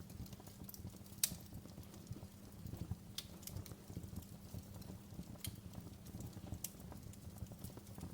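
Wood fire crackling in a fireplace: a low steady rumble of the burning fire with scattered sharp pops, the loudest about a second in.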